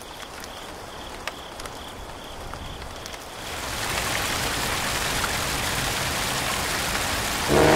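Rain falling, light at first and then swelling into a steady heavy downpour about three and a half seconds in.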